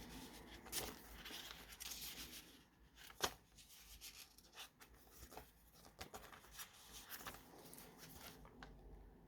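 Paper pages of a handmade junk journal being turned and handled: soft rustling with scattered taps, and one sharp click about three seconds in.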